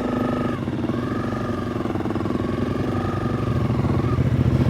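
Motorcycle engines running at low revs and pulling away steadily, with a Suzuki V-Strom's engine among them.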